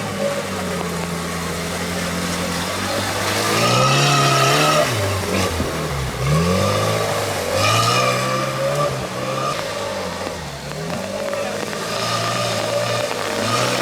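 Tractor engine running hard and revving, its pitch rising and falling several times, with a deep drop and climb about five to six seconds in.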